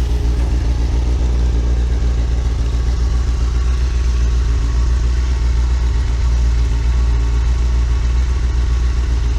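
Benelli TNT 600's inline four-cylinder engine idling steadily through a custom Z1K muffler with a Y-pipe, a deep, even exhaust note.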